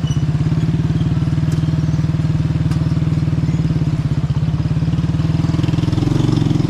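Motorcycle engine running at a low, steady speed with an even pulsing beat, with a few faint clicks over it.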